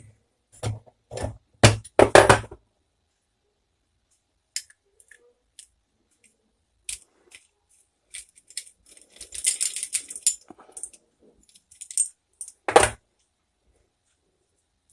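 Metal clinking and clanking from hand work with a three-jaw bearing puller on a stand fan motor's bearing: a few sharp knocks at the start, scattered light clicks and a spell of jangling, then one loud clank near the end.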